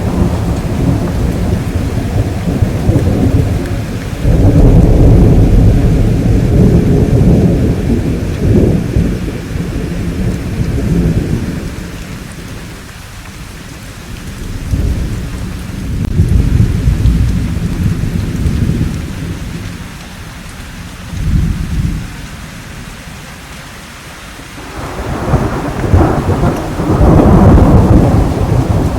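Thunderstorm: rolling thunder rumbles over steady rainfall. A long, loud roll swells about four seconds in, further rumbles come midway, and a strong roll builds near the end. The rain carries on through the quieter gaps.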